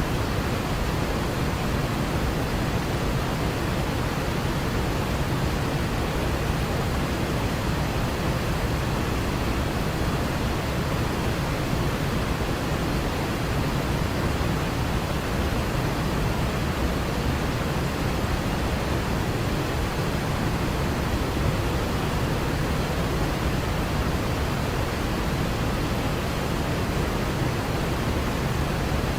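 Waterfall rushing: a steady, unbroken roar of falling water, heaviest in the low end.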